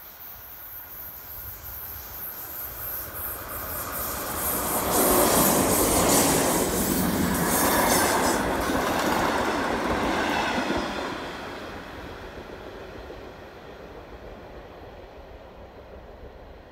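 A passenger train of BLS coaches passing close by: the noise builds for a few seconds, is loudest for about six seconds with rushing and a quick run of wheel clatter over the rail joints, then drops away to a low steady background.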